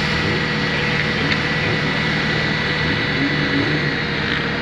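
A steady mechanical drone: constant hums over an even noise, like an engine or aircraft running.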